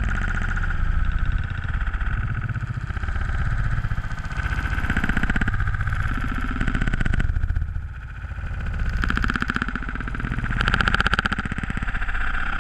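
Small off-road vehicle engine running, its revs rising and falling several times.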